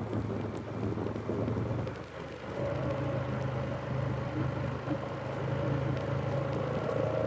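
Polaris ATV engine running while riding along a trail, a steady low hum that dips briefly about two seconds in, then holds slightly higher with a higher steady whine above it.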